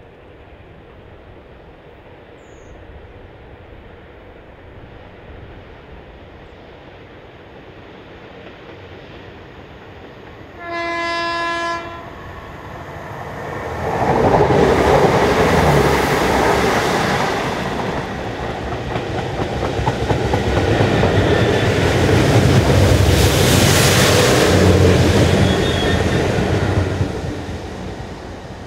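Class 66 diesel locomotive on a railhead treatment train sounds one horn note for about a second, then the train passes close at speed: the engine noise of the leading locomotive, the rush of the tank wagons, and the trailing locomotive loud again as it goes by, before it all fades away near the end.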